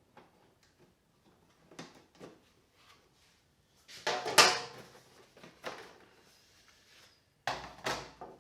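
Hand-work noises on a quad bike: scattered clicks and knocks of tools and parts being handled. The loudest is a scraping clatter about halfway through, and two sharp knocks come near the end.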